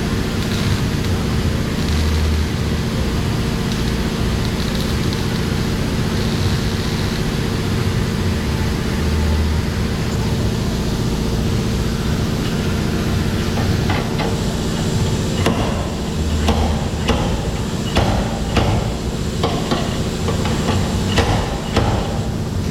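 Steady low mechanical hum, swelling briefly about every seven seconds. From about two-thirds of the way through, irregular knocks and taps sound over it.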